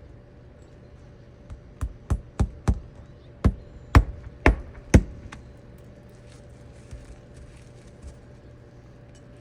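A run of about eight sharp knocks, a third to half a second apart, growing louder toward the last few, over a steady hum.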